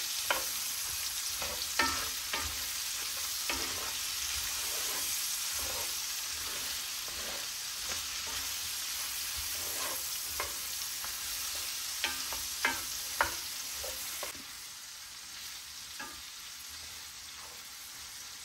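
Pork belly, garlic, red onion and tomato sizzling in oil in a cast-iron skillet while being stirred, with a wooden spoon scraping and knocking against the pan every so often. The sizzle quietens a little about three-quarters of the way through.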